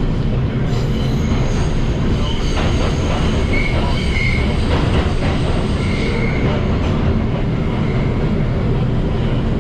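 Inside an R142 subway car running at speed between stations: steady heavy rumble of wheels on rail, with brief high wheel squeals a few seconds in and again around the middle, and faint clicks over rail joints.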